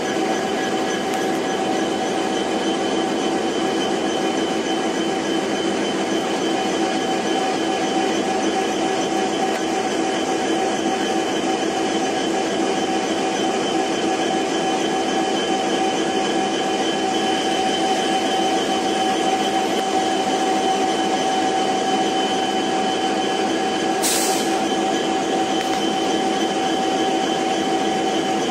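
Steady mechanical hum of a train locomotive, made of several constant tones at an even level. A brief hiss about 24 seconds in.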